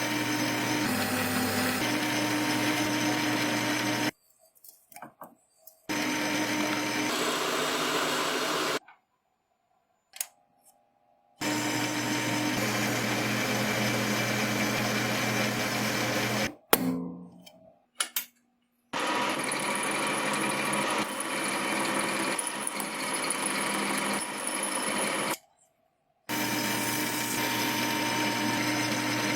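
A small electric power tool running steadily in five stretches of a few seconds each. Each stretch starts and stops abruptly, and the short gaps between them hold a few light clicks and knocks.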